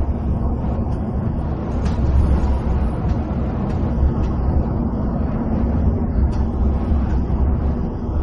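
Cabin noise of a coach at highway speed: a steady low engine drone and tyre roar, with a few faint ticks on top.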